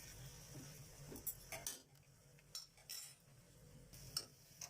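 A stirring utensil clinking against a cooking pan as masala powders are roasted in oil: a handful of short, sharp clinks at uneven intervals.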